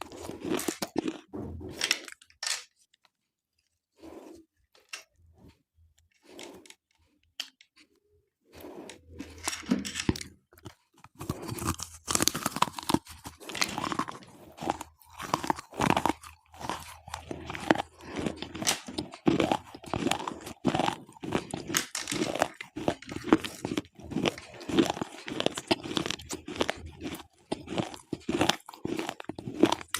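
Slate pencils being bitten and chewed close up: sharp gritty crunches. The crunching stops almost completely for a few seconds about two seconds in, picks up sparsely, then runs dense and continuous from about nine seconds on.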